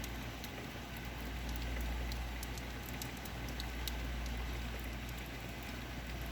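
Heavy rain falling steadily, with many scattered sharp ticks of drops striking nearby surfaces over a constant rushing hiss. A steady low rumble runs underneath.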